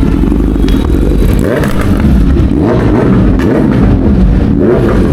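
Royal Enfield Continental GT650's parallel-twin engine, with a CODE6 tune and Red Rooster exhaust, running and revving as it is bump-started in gear because the battery is dead.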